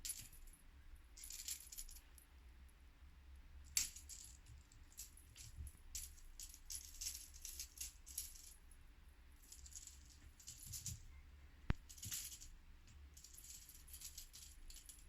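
Light, scattered rattling and clinking in short bursts, with two sharper clicks, one about four seconds in and one near twelve seconds.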